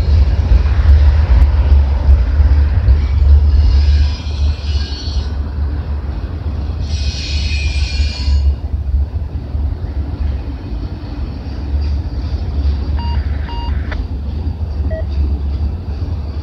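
Freight train of autorack cars rolling past, a steady low rumble of wheels on rail, louder for the first few seconds. The wheels give two brief high-pitched squeals, about four and seven seconds in.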